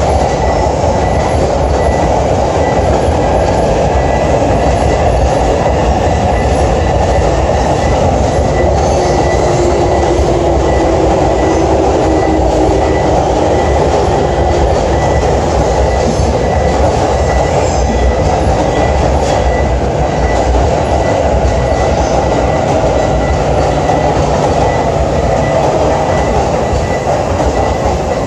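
Electric commuter train running alongside the platform: a steady loud rumble of wheels on rails, with a faint electric motor whine that glides in pitch in places.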